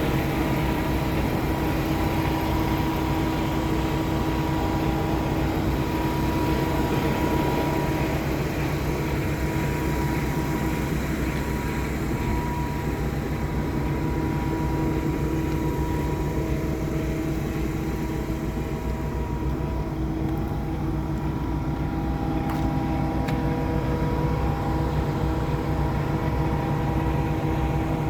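Heavy diesel truck engine, a Paccar MX13, idling: a steady low rumble with a few steady tones over it.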